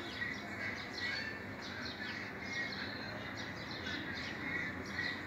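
Faint, scattered bird chirps over a steady background hiss.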